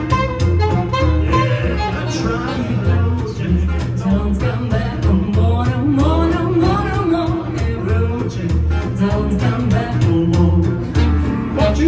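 A live jazz band plays an instrumental passage: a steady walking bass pulse under a lead melody that glides up and down.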